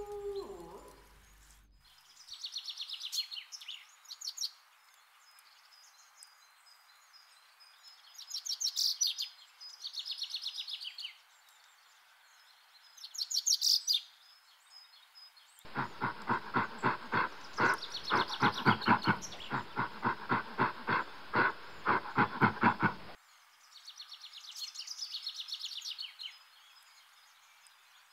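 The last of a coyote's howl fades in the first second, followed by songbird trills and chirps. Then comes a rapid series of pitched gorilla hoots, about three a second for some seven seconds, which starts and stops abruptly. Bird trills return near the end.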